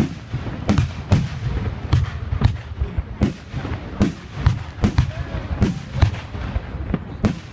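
Fireworks display: an irregular, rapid string of sharp bangs and cracks, often more than one a second, over a low rumble of more distant bursts.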